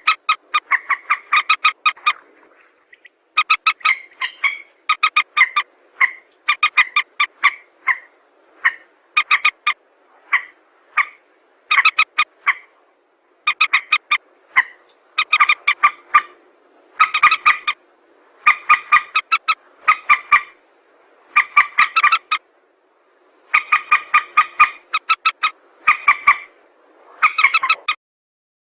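Recorded mandar (rail) calls played as a bird-hunting lure: rapid clucking notes in bursts of about a second, repeated with short pauses. The calls stop near the end.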